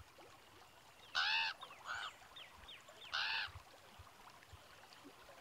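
A bird honking twice, about two seconds apart, each call rising and then falling in pitch. Between the two honks come a quieter call and a run of short chirps.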